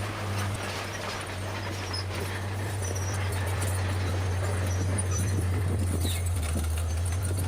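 Bulldozer's diesel engine running with a steady low drone, with a light irregular clatter over it, growing a little louder about two to three seconds in.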